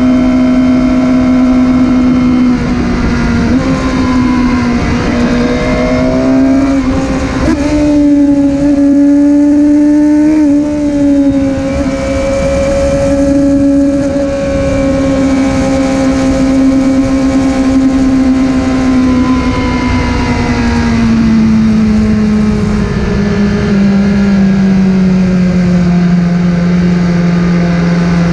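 Motorcycle engine running steadily under way; its pitch rises a little a third of the way in, then drops gradually near the end as it slows.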